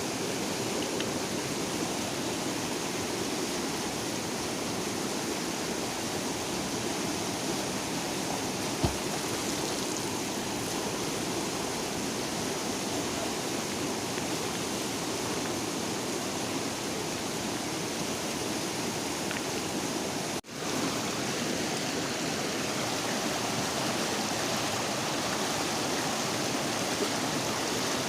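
River water rushing steadily. A single short knock sounds about nine seconds in, and about twenty seconds in all sound drops out for an instant.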